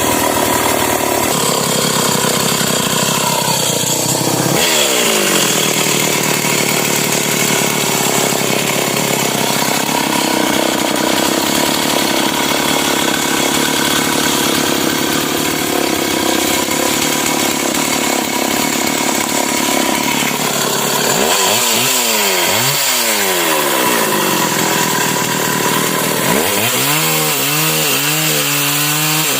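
Stihl MS 381 two-stroke chainsaw running hard and cutting wood. The engine speed dips and rises about five seconds in, and twice more in the last nine seconds.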